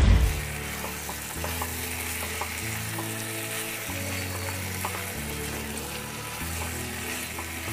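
Raw chicken pieces, potato chunks and onion sizzling in hot oil in a nonstick wok, stirred with a spatula, with small ticks and scrapes from the spatula.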